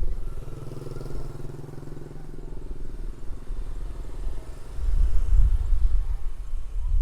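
A small motorcycle engine passing by, its note loudest in the first second or two and then fading away. A low rumble swells about five seconds in.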